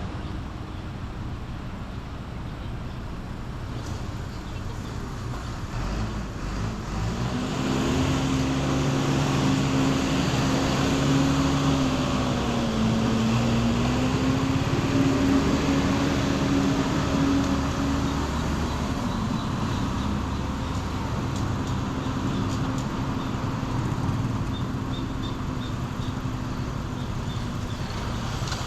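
Road traffic noise from a drive through town. About seven seconds in, a vehicle's engine hum swells and gets louder, dips briefly in pitch midway, then fades after about twelve seconds.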